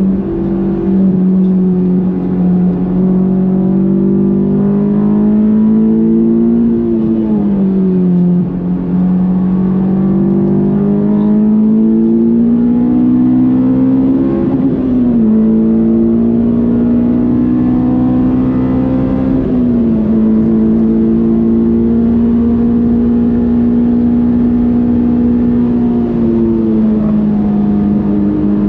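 Honda S2000's 2.2-litre F22 four-cylinder under hard driving on track, heard on board. The engine note climbs slowly under load, then drops sharply four times as the driver shifts or lifts.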